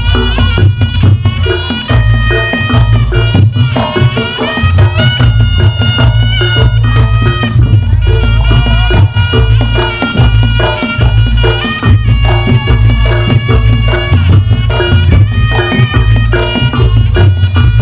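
Reog Ponorogo accompaniment music played loud: a reedy shawm (slompret) melody moving in steps over drums and a heavy bass.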